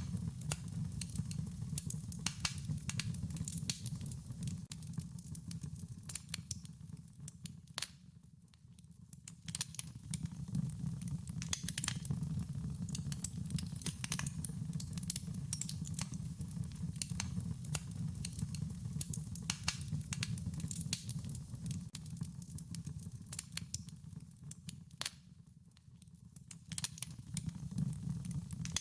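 Wood fire crackling: a steady low rumble of flames under frequent sharp pops and snaps. It eases off briefly twice, about eight seconds in and again around twenty-five seconds.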